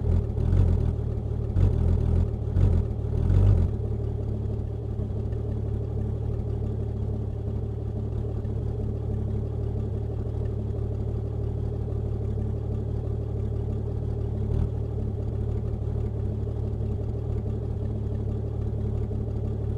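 Car engine recording played through the AudioMotors plugin in scratch mode, held at one spot in the file as a continuous granular texture. A few uneven surges in the first three to four seconds, then a steady low engine rumble.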